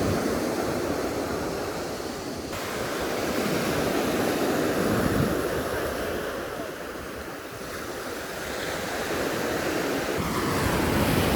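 Ocean surf: waves breaking and washing up the beach, the rush swelling and easing every few seconds, with wind buffeting the microphone.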